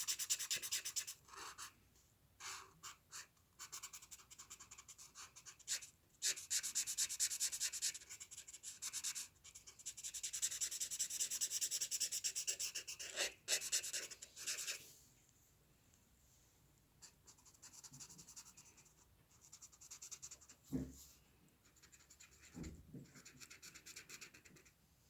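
Drawing tool scratching across paper in quick repeated strokes, busy for the first fifteen seconds or so, then quieter with only scattered strokes and a couple of soft low thumps.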